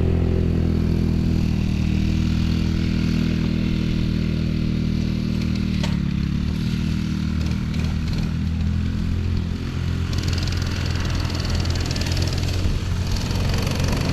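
Small off-road vehicle engine running steadily under way. Its pitch dips briefly and comes back up about six seconds in.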